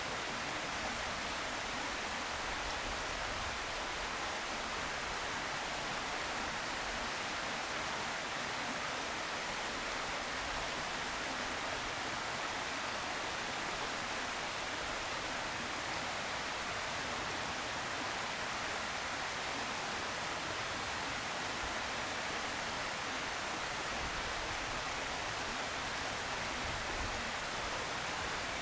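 Steady, even hiss with no distinct calls or events.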